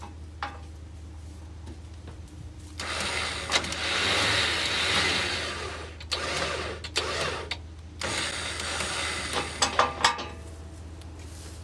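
Winch motor running in three bursts of a few seconds each, paying out the tied-together tow rope to lower the truck, with a few sharp clicks near the end of the last burst. A steady low hum runs underneath.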